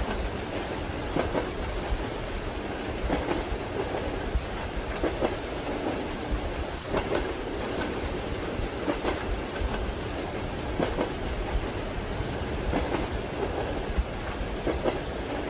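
Train wheels clacking over rail joints, a cluster of knocks about every two seconds, over the steady rumble of a moving carriage and the hiss of rain.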